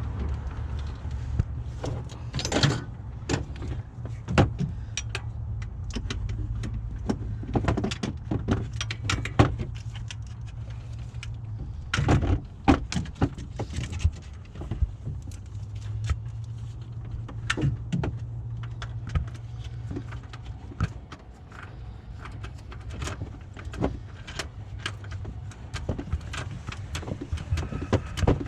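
Scattered metallic clicks and clinks of a wrench and the engine's cooling-fan clutch being worked loose by hand, over a steady low hum.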